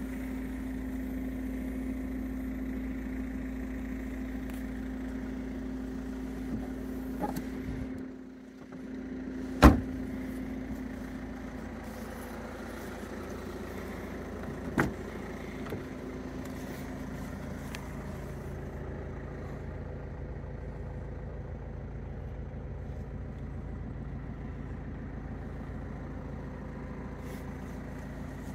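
Ford Fiesta's 1.5 diesel engine idling steadily. About ten seconds in comes a single loud, sharp clunk, and a smaller clunk follows about five seconds later as a rear door is opened.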